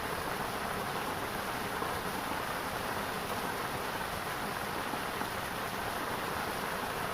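Flowing river water, a steady, even rush of running water.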